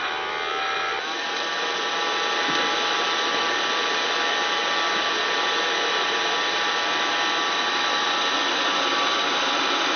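12 V hair-dryer fan running steadily as the furnace's air blower, a loud whir of motor and rushing air with a slight rise about a second in.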